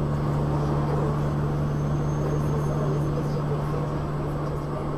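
Steady running noise of a moving vehicle, heard as a constant low hum under an even rush of road noise.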